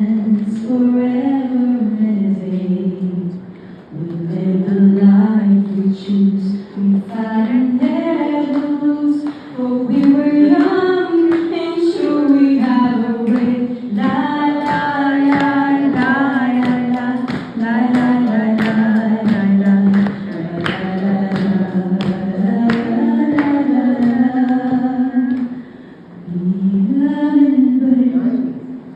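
A woman singing solo, unaccompanied, in long phrases with wavering, ornamented held notes, pausing briefly about four seconds in and again near the end.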